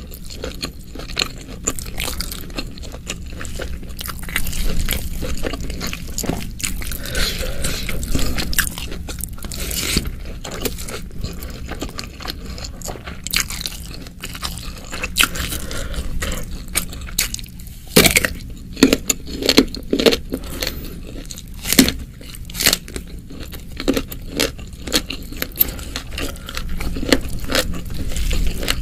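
Close-miked eating sounds: chewing and crunching mouthfuls of spicy oseng mercon (chili stir-fried beef, ribs and beef tendon). There is a run of louder, sharper crunches a little past the middle.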